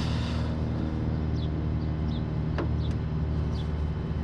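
A vehicle engine idling steadily, with a few faint short high chirps and a single click about two and a half seconds in.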